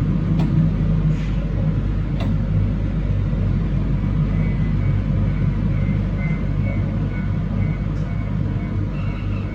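Train running along the line, heard from inside: a steady low rumble of wheels on rail. Two sharp clicks come in the first few seconds, and a faint thin high tone comes and goes.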